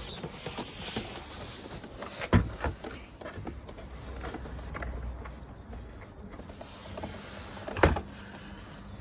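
Hands working a car's plastic door trim panel: scattered small clicks and rustling, a sharp knock a little over two seconds in and a louder knock near the end.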